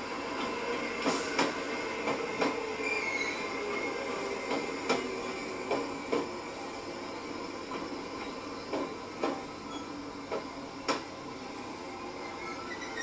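E653 series electric train moving slowly, with a steady running noise and irregular sharp knocks of its wheels over rail joints and points, about one or two a second.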